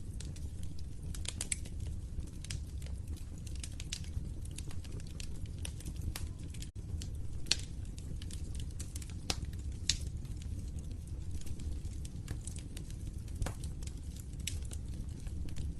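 Wood fire burning in a fireplace, crackling with irregular sharp pops over a steady low rumble of the flames, with a split-second dropout about seven seconds in.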